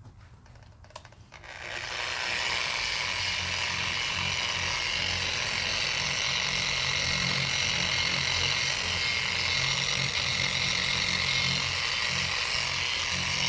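Small electric power sander fitted with a new sanding disc starting up about a second and a half in and then running steadily, sanding a plastic headlight lens to take off brownish burned-in spots.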